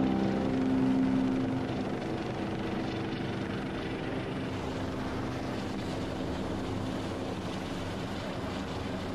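Rescue helicopter running steadily, a continuous drone of rotor and turbine noise.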